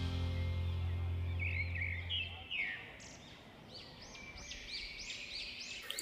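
The ringing tail of background music fades out over the first two seconds. A bird then chirps a quick series of short notes that rise and fall, coming faster and higher toward the end.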